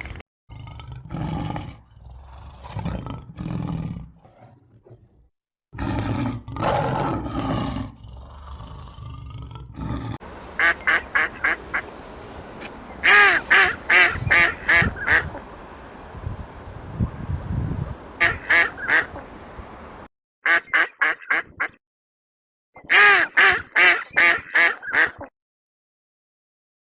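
Duck quacking in quick runs of short calls, in several separate bursts cut one after another. The first ten seconds hold lower, rougher sounds that are not quacks.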